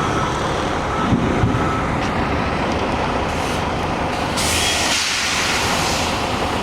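Semi truck's diesel engine running nearby, with a loud hiss of air from its air brakes starting about four seconds in and lasting to the end.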